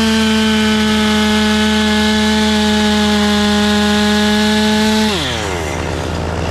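Chainsaw running at full throttle through a cut, its pitch sagging slightly under load. About five seconds in the throttle is released and the revs fall away quickly. A lower steady engine hum continues underneath.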